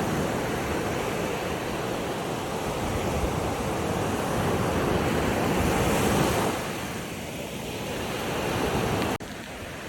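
Ocean surf washing on a shore, swelling and easing in a steady rush. The level drops suddenly about nine seconds in.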